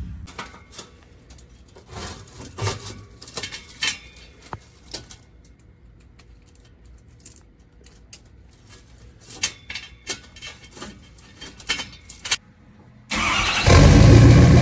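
Scattered metallic clinks and taps of exhaust hardware being fitted and bolted up, then about thirteen seconds in the 2013 Ford F250's 6.7-litre Power Stroke V8 turbo-diesel starts and runs loud through a straight 4-inch stainless race pipe.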